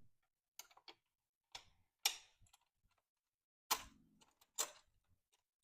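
A handful of short, irregular metal clicks and knocks from hands and a tool working a hose clamp and the blow-off-valve block-off plate.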